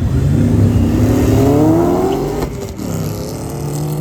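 A racing vehicle's engine accelerating hard, its pitch climbing steadily, then dropping sharply at an upshift about two and a half seconds in and starting to climb again.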